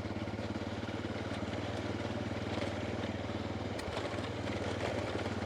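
Honda Dominator's single-cylinder four-stroke engine idling steadily, with an even pulsing beat.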